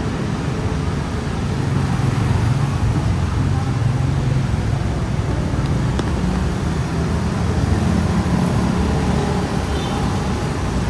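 Steady road traffic: a continuous low rumble of car and bus engines and tyres.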